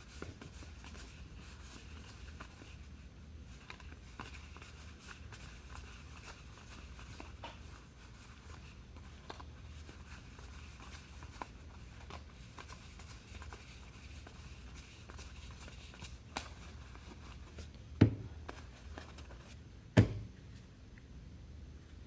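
Trading card packs and cards being handled: faint rustling of wrappers and small clicks over a low steady hum. Two sharp knocks, the loudest sounds, come near the end about two seconds apart.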